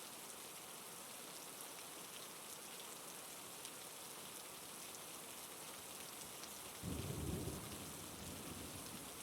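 Steady rainfall, with a brief low rumble of thunder about seven seconds in.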